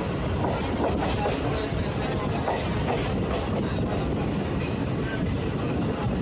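Train running along the tracks: a steady rumble of wheels on rail with a few sharp clicks.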